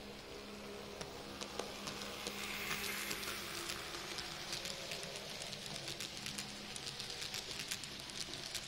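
N-gauge model train with a class 111 locomotive running on track: rolling hiss and many quick clicks of wheels over rail joints, getting louder from about a second in.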